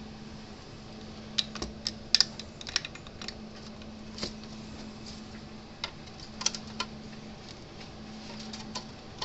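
Small tools and parts being handled on a workbench: scattered sharp clicks and light clatters in irregular bunches, over a steady low hum.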